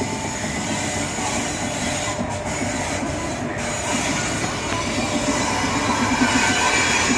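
Train wheels rolling slowly over the rails with a steady rumble and clatter, and a thin wheel squeal in the second half.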